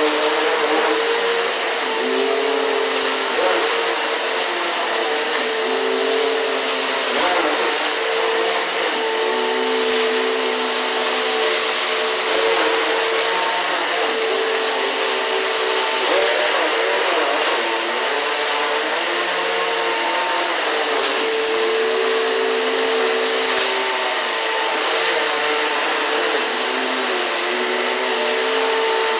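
Eureka PowerSpeed upright vacuum cleaner running steadily, with a high motor whine over a rushing hiss. Its lower hum shifts in pitch every couple of seconds as it is worked over the floor.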